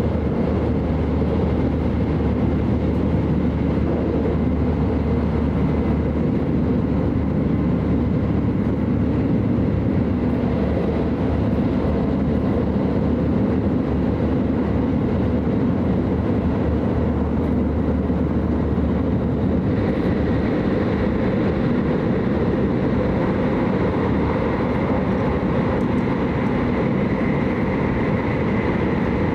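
Steady running noise inside the cabin of an E5 series Shinkansen travelling at speed: a constant low rumble and rush from the train on the track. The upper range brightens a little about two-thirds of the way through.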